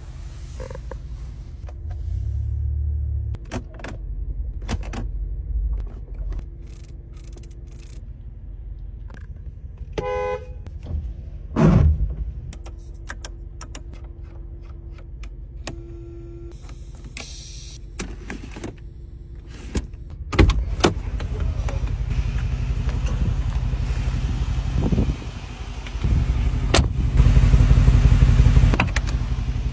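Mercedes G550's V8 engine running with a steady low rumble, heard from inside the cabin, with clicks and knocks of interior controls being handled and one loud knock about twelve seconds in. From about twenty seconds in the engine sound gets louder and fuller, heard at the twin exhaust tips.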